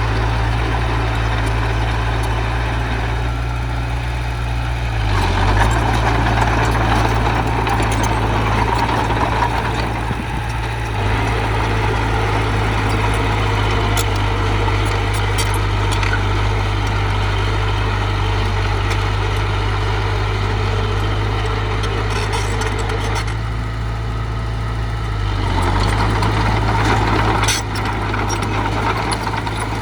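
Heavy diesel engine of earthmoving machinery running steadily, with stretches of harder working about five seconds in and again near the end.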